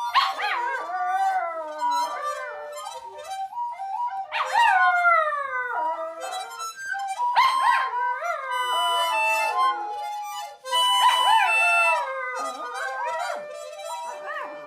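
A toy poodle howling along to an instrument. Its long howls rise and fall in pitch over steady held musical notes, in several drawn-out phrases.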